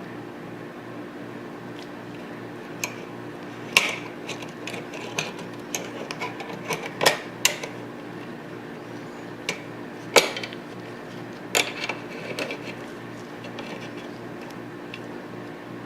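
Steel parts of a Tokarev TT-33 pistol clicking and knocking together as it is handled during reassembly, in a scatter of sharp clicks with a few louder knocks.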